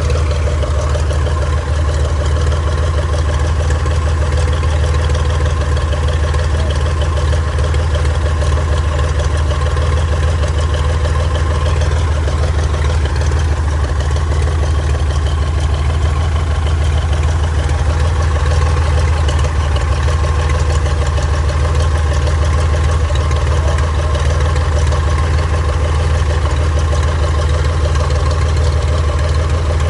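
1948 Cessna 170's six-cylinder Continental engine and propeller running at a steady idle, its first run after sitting unused. The pitch and level stay even throughout, with no revving.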